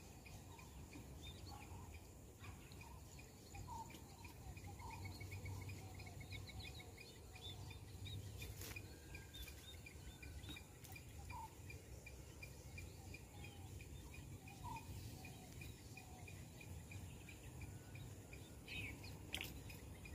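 Faint outdoor ambience: birds giving short chirps every second or two over a steady, fast, high-pitched pulsing trill, with a low rumble underneath. Two sharp clicks, one about nine seconds in and one near the end.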